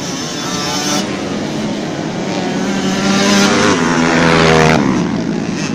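Motocross dirt bike engines racing, with one engine revving higher and higher before its note drops sharply near the end.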